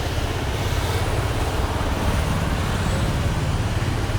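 Steady low background rumble with a faint hiss, even throughout, with no distinct knocks or clicks.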